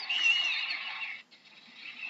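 Birds calling: a wavering whistled note over a raspy, hissing background for about a second, which cuts off abruptly, then fainter calling builds again.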